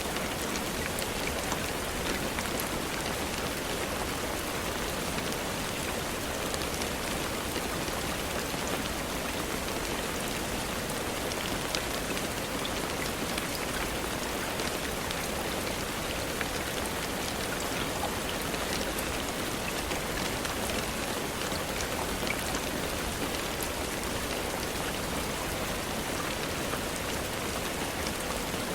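Steady rain falling on a surface, a dense even patter with scattered individual drops ticking.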